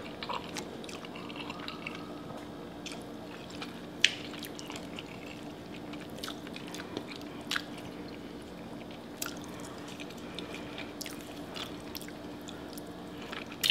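Close-miked eating: wet chewing and mouth sounds of a person eating pasta, with scattered small clicks, the sharpest about four seconds in, over a faint steady hum.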